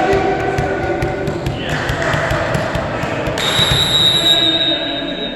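Voices shouting in a large echoing sports hall during a volleyball match, with scattered thuds and knocks of the ball and players. A steady high-pitched tone starts abruptly about two-thirds of the way in and holds to the end.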